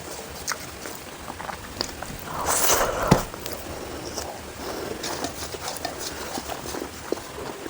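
Eating sounds: scattered small clicks and smacks of chewing, with a louder rustling noise about two and a half seconds in that ends in a sharp click.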